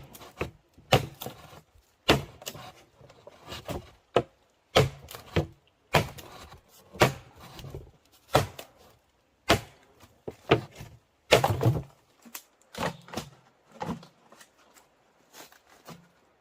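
Wood being struck again and again with a hand tool: sharp knocks with a dull thud, at an uneven pace of about one or two a second, growing weaker near the end.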